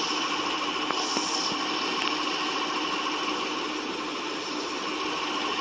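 2015 Jeep Grand Cherokee's engine idling steadily with the air conditioning running on high, a constant hum from the engine bay. A brief faint hiss comes about a second in.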